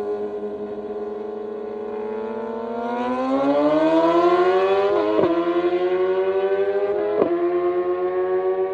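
A vehicle engine running at a steady pitch that climbs about three seconds in and then holds high, with two brief sharp blips in pitch partway through.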